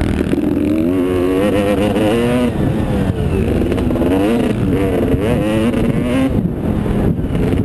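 Motocross motorcycle engine revving up and down over and over, its pitch climbing and dropping as the bike is ridden through the track.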